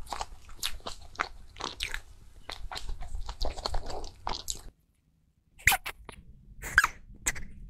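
Close-miked crunchy chewing of a crumb-topped pastry: a quick run of short crisp crunches, a brief silent break a little past the middle, then two louder crunches.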